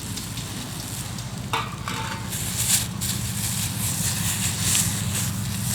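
Hardwood campfire hissing and crackling in a fire pit, the hiss growing denser from about two seconds in, over a steady low rumble. A single sharp knock comes about a second and a half in.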